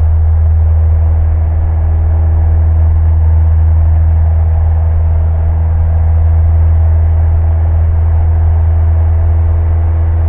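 Single-engine Cessna's piston engine and propeller running steadily during the climb-out after takeoff, a loud, even drone heard from inside the cockpit through the headset audio.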